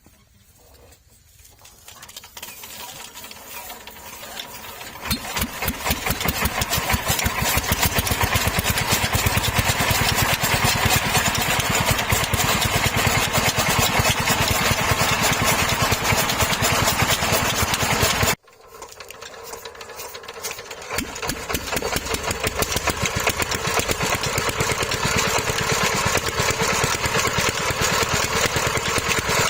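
Old stationary diesel engine starting up: the firing builds over a few seconds into a steady run of even firing strokes. After an abrupt cut, another engine picks up the same way and settles into steady running.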